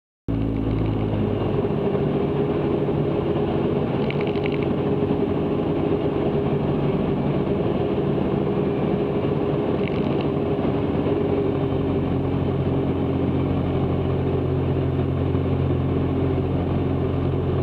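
Cessna 162 Skycatcher's four-cylinder Continental O-200 engine and propeller droning steadily as heard in the cockpit. The sound cuts in abruptly just after the start and holds an even pitch throughout.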